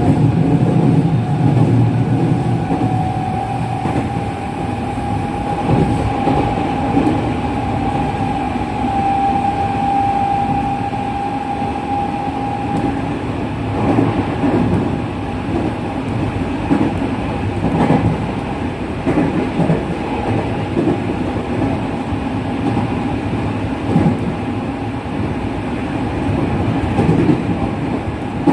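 A JR West 207 series electric train running at speed, its original, unmodified traction motors giving a steady whine that rises slightly and then holds. Wheels knock over rail joints now and then.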